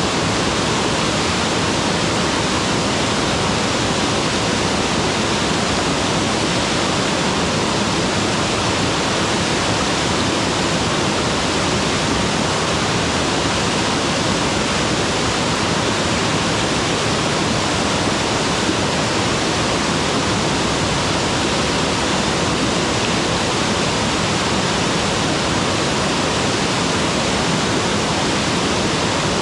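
Mountain waterfall crashing steadily: a loud, even rush of falling water with no change.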